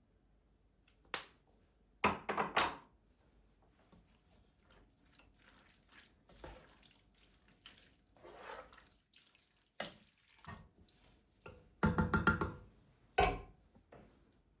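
Scattered knocks and clinks of objects being handled and set down, in small clusters, some ringing briefly.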